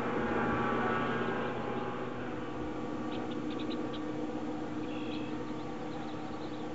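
A boat motor running with a steady hum that eases down over the first couple of seconds. A few short, high chirps come through about three seconds in and again near five seconds.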